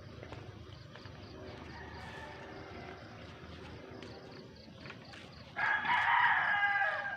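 A rooster crowing: one long crow near the end, about a second and a half long, with fainter calls earlier.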